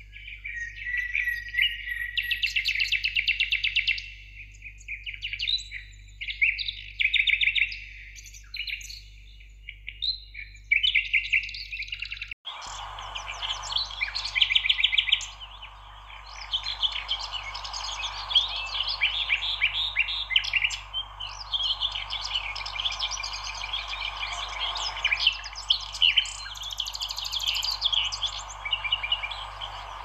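Several songbirds chirping and singing in quick, overlapping trills. About twelve seconds in the sound cuts out for an instant, and a steady hiss then runs under the birds.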